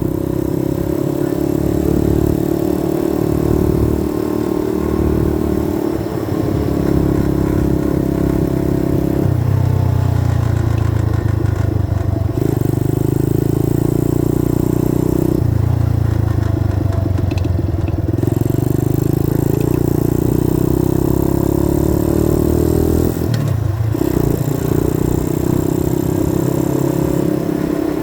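90cc dirt bike engine running while riding, its note shifting in steps several times as the revs change, with a brief drop a little before the end.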